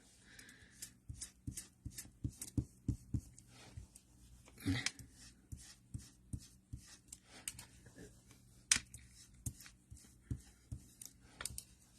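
Ink blending tool dabbing and brushing ink onto cardstock through a stencil: quiet, irregular soft taps, a few a second, with light rubbing of paper.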